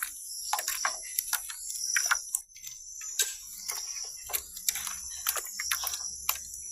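A metal utensil clicking and scraping against a bowl in irregular strokes, two or three a second, as chili sauce is mixed.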